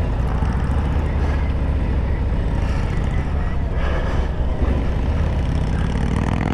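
Harley-Davidson Road Glide V-twin engine running at riding speed, heard with heavy wind and road noise; the engine note rises slightly near the end.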